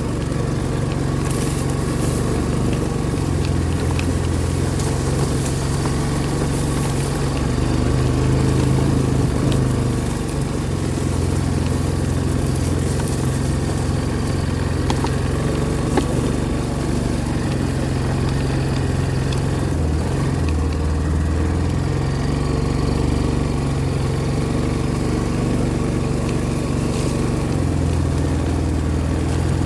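A vehicle engine running at low speed while driving, a steady drone whose pitch shifts up and down a little every few seconds, with one short knock about halfway through.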